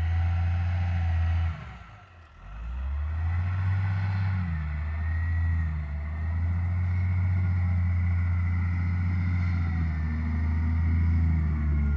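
Heavy diesel engine running steadily with a deep drone. It drops away briefly about two seconds in, then comes back and holds.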